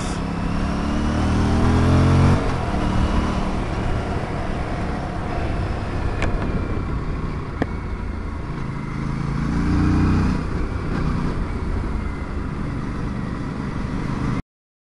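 Aprilia RS457 parallel-twin motorcycle engine running on the road: its note rises for about two seconds, drops sharply, and swells again about ten seconds in. The sound cuts off abruptly just before the end.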